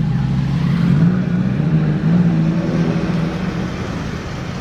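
Car engine accelerating, its pitch climbing and then dropping back at gear changes about a second and two seconds in.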